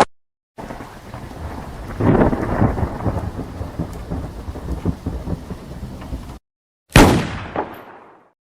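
Thunderstorm sound effect: a steady hiss of rain with low rolling rumbles that cuts off abruptly, then, after a short silence, a single sharp crack that dies away over about a second.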